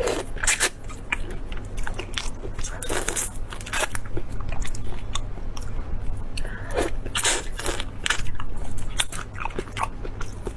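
Close-miked biting and chewing of food, with irregular crisp crunches about once or twice a second.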